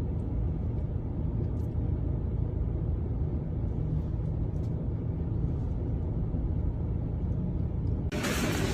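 Steady low rumble with a few faint ticks. Near the end a louder hiss cuts in abruptly.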